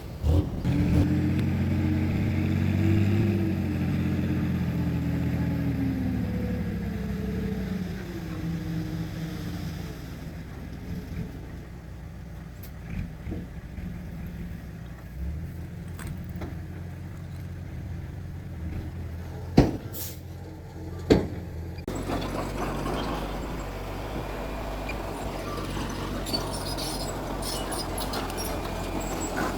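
Heavy diesel earthmoving machine's engine running hard, its pitch sliding down over the first several seconds. It then settles to a quieter run, with two sharp knocks about a second and a half apart. A different steady low engine drone takes over about three-quarters of the way in.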